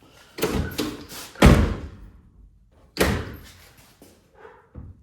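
Heavy car door of a Mercedes-Benz W123 300TD being shut, with clunks of latch and door, the loudest thud about one and a half seconds in and another sharp slam about three seconds in. The door is being test-closed after a hinge adjustment and is not closing correctly because it is misaligned.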